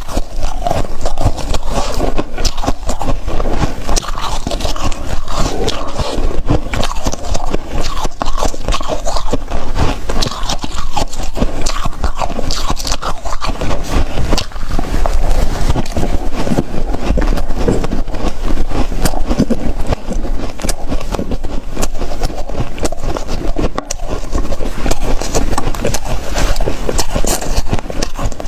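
Ice being bitten and chewed close to the microphone: continuous crunching and crackling of ice between the teeth.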